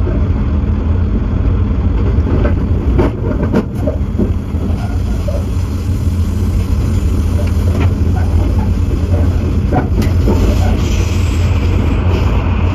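Steady running rumble of a train heard from a locomotive cab: wheels on rail over a low engine drone, with a few short knocks about three seconds and ten seconds in. Near the end the noise grows brighter and rushing as the train enters a tunnel.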